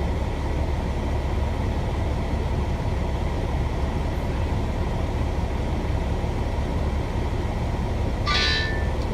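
Heavy rain pouring down steadily, with a deep steady rumble underneath; a brief sharper hiss comes through near the end.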